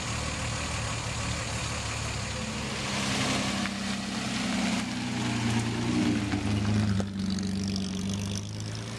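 Classic Austin-Healey sports car's engine running and moving off slowly. The engine note rises and grows louder about three seconds in, then drops back near the end.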